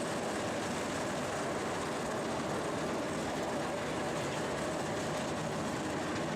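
A 10-inch gauge miniature railway train running along the track, a steady, unbroken running noise from its wheels on the rails.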